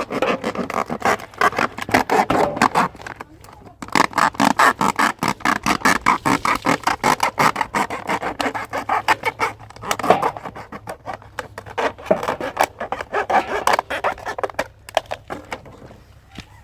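Something being scraped or rubbed by hand in fast back-and-forth strokes, about five or six a second. The strokes come in runs of a few seconds, with a short break about three and a half seconds in and another near the end.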